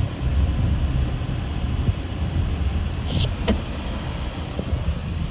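Car driving slowly, heard from inside the cabin: a steady low road and engine rumble, with a couple of light clicks a little past halfway.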